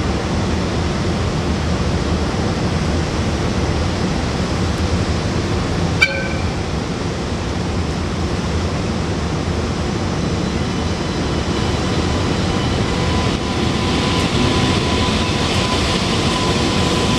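JR Freight Class EH200 electric locomotive hauling a freight train slowly past, with a steady rumble of wheels and running gear. There is a sharp click about six seconds in. A thin steady whine and a brighter hiss grow over the last few seconds.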